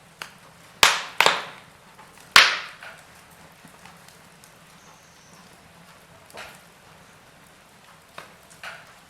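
Wood fire in a fireplace crackling: a quick run of sharp pops in the first couple of seconds, the loudest about two and a half seconds in, then softer scattered snaps over a faint steady hiss.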